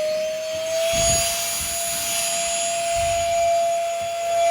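Cordless stick vacuum's motor running with a steady high whine and airflow hiss. The whine rises slightly in pitch in the first second and then holds, with a few low bumps.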